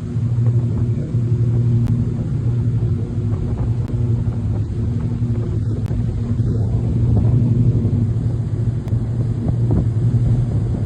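An engine running at a steady speed: a low, even drone that holds one pitch.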